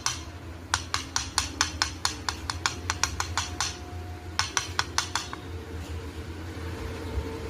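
A quick run of sharp, light clicks or taps, about four or five a second, that stops briefly and then comes again for a few more, over a low steady hum.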